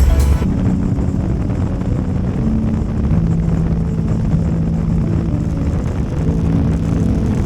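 BMW R18's big boxer-twin engine running through modified loud fishtail exhaust pipes at road speed, its note holding steady and then stepping up and down in pitch a few times.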